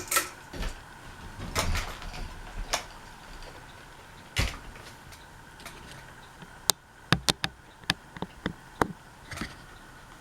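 Sharp clicks and knocks from handling a Harbor Breeze Armitage ceiling fan's controls as it is set to low speed: a few scattered knocks, then a quick cluster of sharper clicks in the second half, over a faint steady hum.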